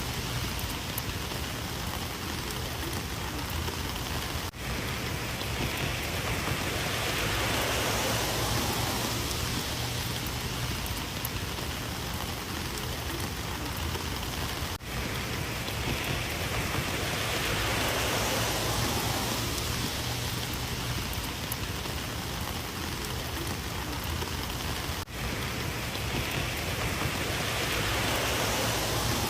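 Heavy rain falling steadily, swelling and easing in waves about every ten seconds, with a brief dip in loudness each time.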